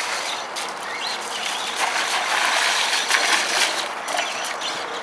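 Electric RC mud trucks running a mud-bogging heat: the motors drive and the tyres churn through mud in a gritty, clattering mechanical noise that grows louder from about two to three and a half seconds in.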